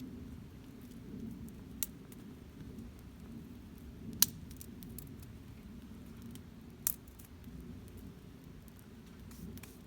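Wood campfire burning with a low, steady rumble and faint scattered crackles, broken by three sharp pops about two, four and seven seconds in, the one near four seconds the loudest.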